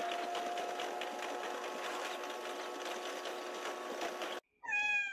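Faint, steady running noise inside a diesel railcar's cabin on the move, with a light hum. It cuts off near the end, followed by a single meow-like call that falls in pitch over about a second.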